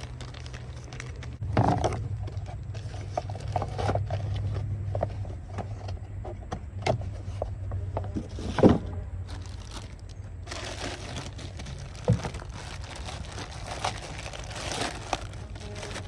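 Packaging crinkling and rustling as new truck parts are unpacked and handled, with scattered knocks of parts being set down, the sharpest about nine seconds in. A steady low hum runs underneath.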